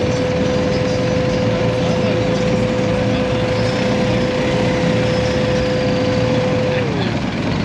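BMW GS adventure motorcycle running along at steady speed, with engine and road noise. A steady high whine holds level and then slides down in pitch near the end as the bike slows.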